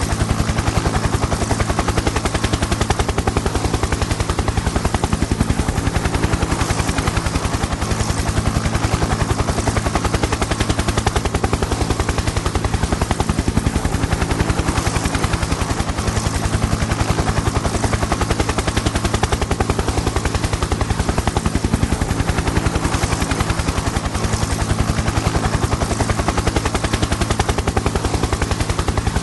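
Helicopter in flight: the rotor blades chop in a rapid, even beat over a steady low engine drone, unchanging throughout.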